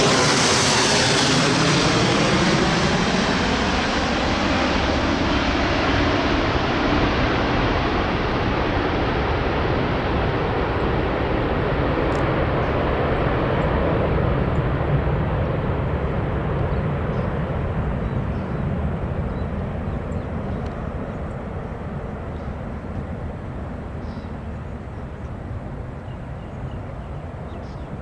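Airbus A380's four Rolls-Royce Trent 900 turbofans at takeoff power, a heavy jet rumble loudest in the first seconds with a sweeping, swishing shift in tone as the aircraft passes, then fading steadily as it climbs away.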